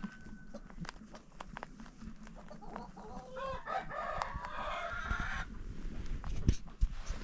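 A rooster crows once, a call lasting about two seconds, among clucking chickens. Two loud knocks come near the end.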